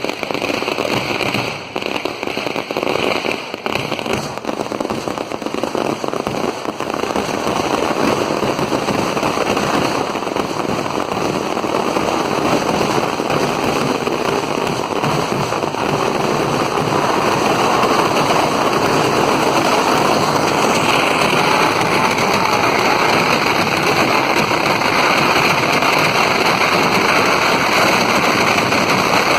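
Firecrackers going off in a continuous, dense crackle of rapid bangs, with a few separate louder bangs in the first seconds. After about seven seconds they build into an unbroken, louder barrage.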